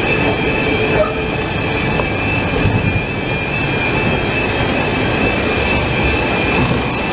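Train of coaches with LNER A3 steam locomotive Flying Scotsman rolling past close by in reverse: a loud, steady rumble of wheels on rail with a thin, steady high-pitched whine running through it.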